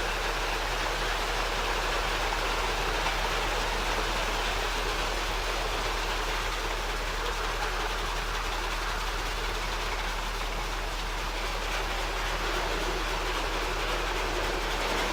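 Iteco rollover truck wash running, with high-pressure water jets spraying and rotating brushes scrubbing a truck's cab. It makes a steady rushing noise.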